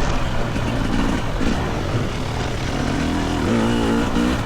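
Single-cylinder two-stroke engine of a GasGas EC300 dirt bike running under the rider, its revs rising and falling with the throttle, most plainly near the end.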